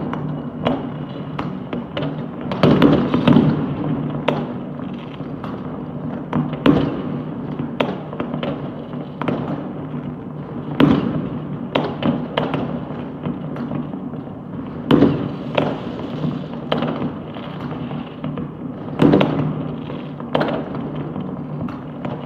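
Fireworks going off all across the city, a dense irregular run of bangs and pops near and far over a steady low rumble, with a few louder bangs standing out.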